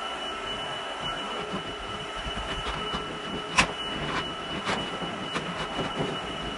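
Dibea vacuum cleaner running with a steady high-pitched whine, with several knocks and clicks as it is worked over the floor.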